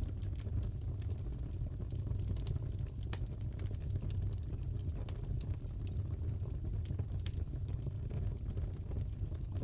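Crackling fireplace: a steady low rumble of burning logs with irregular sharp pops and crackles scattered throughout.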